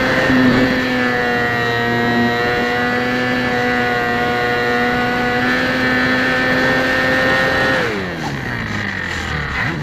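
HobbyZone Champ RC plane's small electric motor and propeller running at steady speed, heard from a camera mounted on the plane, then winding down in pitch about eight seconds in as the throttle is cut to land.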